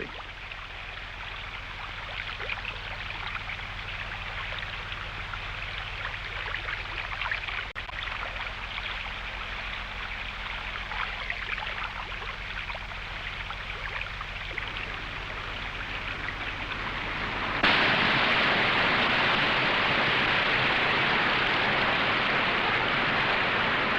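Fast river water rushing through rapids as a steady noise that slowly grows louder. About eighteen seconds in it jumps suddenly to a much louder, fuller rush of water at a waterfall.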